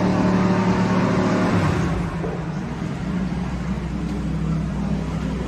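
A car engine running at a steady pitch, dropping away about two seconds in and leaving a lower, steady hum.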